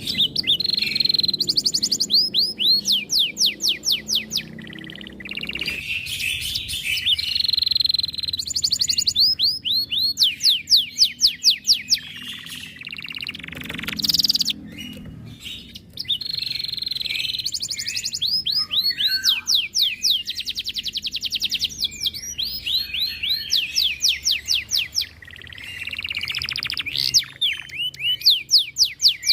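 Domestic canary singing a long, loud song: phrase after phrase of rapid trills, each made of fast repeated sweeping notes, with brief pauses between phrases.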